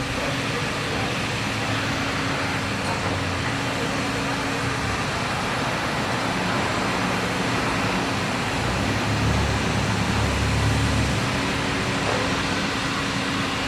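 Steady city traffic noise, with a vehicle's engine rumbling louder for a couple of seconds about nine seconds in.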